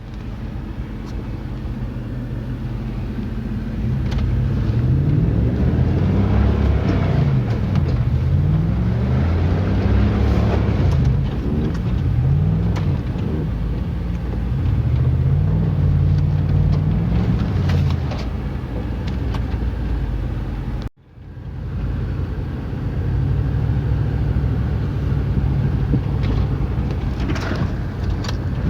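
Old Jeep's engine running while driving, its pitch rising and falling over and over as it revs up and eases off, then steadier after a brief break about two-thirds of the way through.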